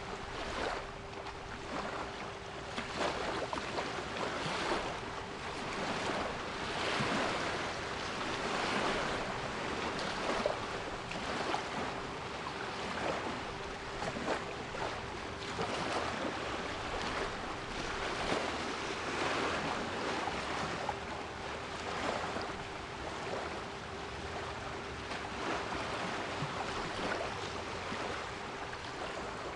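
Sea waves washing in and out in repeated swells, with a steady 396 Hz pure tone held underneath.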